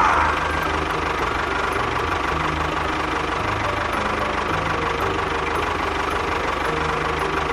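An engine running steadily with a fast, regular knocking beat, like a small tractor engine at idle.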